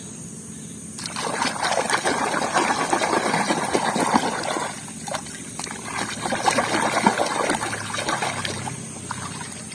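Water trickling and splashing over a muddy plastic toy as it is rinsed clean. The water starts about a second in and breaks off briefly about halfway through.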